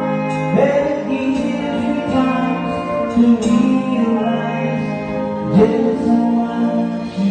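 Live band music played loud through a PA system, with sustained chords shifting every second or so.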